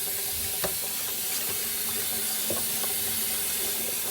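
Water running steadily from a tap while a raw turkey is rinsed, with a couple of light knocks about half a second and two and a half seconds in.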